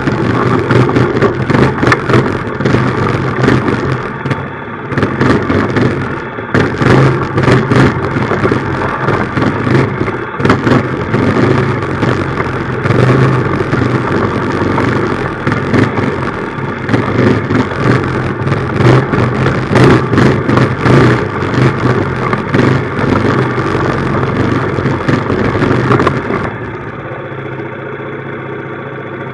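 Minibike's small engine running while riding, with frequent knocks and rattles over the engine note. Near the end it drops to a quieter, steady idle.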